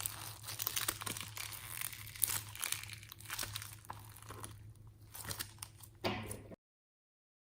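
Packaging crinkling and tearing close to the microphone in quick, irregular crackles, over a low steady hum; the sound cuts off abruptly about six and a half seconds in.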